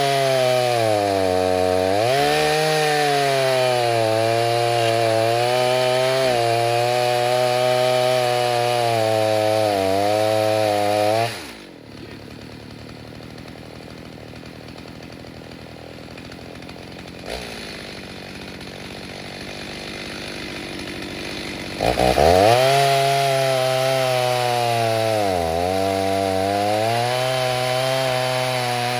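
Freshly rebuilt Stihl 029 chainsaw with a 45 mm cylinder, cutting wood at full throttle, its pitch sagging and recovering under load. About 11 seconds in it drops to idle for roughly ten seconds, then revs back up into the cut.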